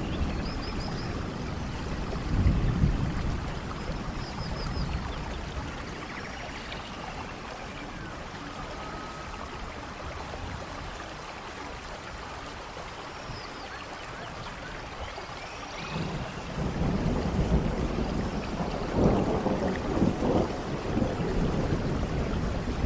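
Steady heavy rain with thunder rumbling: a roll of thunder a couple of seconds in, then a quieter spell of rain alone, and a longer, louder rumble building from about two-thirds of the way through to the end.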